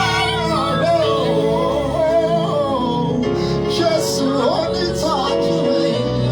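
Gospel worship music: a solo voice sings a sliding, wordless melodic line over steady held instrumental chords and bass.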